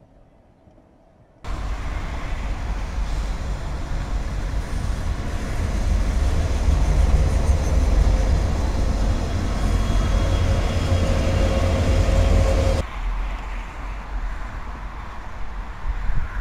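Train passing a trackside camera: a loud, steady rumble of wheels on rail with a faint steady tone through it. It starts suddenly about a second and a half in and drops abruptly to a quieter rumble near the end.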